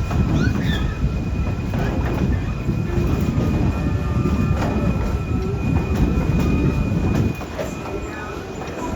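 Passenger cars of a narrow-gauge steam train rolling along the track: a steady low rumble with a thin, steady wheel squeal above it. The rumble drops noticeably about seven seconds in.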